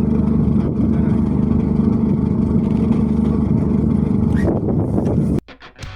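Steady low engine drone that cuts off suddenly about five and a half seconds in.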